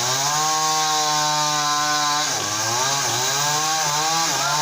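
Two-stroke chainsaw running at high revs while cutting a tree branch. Its pitch dips and climbs back several times as the chain bites into the wood, most often in the second half.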